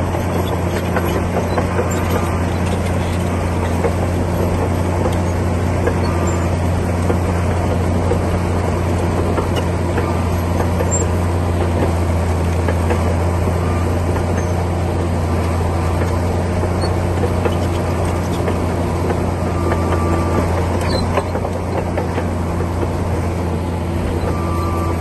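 Komatsu D60P bulldozer's diesel engine running steadily, a constant low drone with no breaks.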